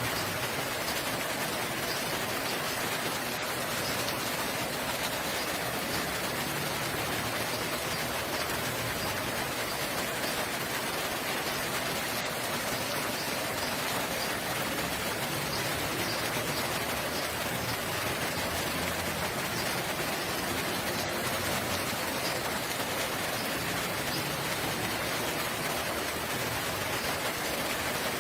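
Steady rain falling, an even hiss of drops on surfaces that keeps on without a break.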